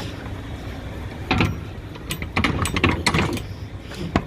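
Clattering knocks and metallic clicks as a broom and shovel are stowed against a trailer wall, with a sharp click near the end.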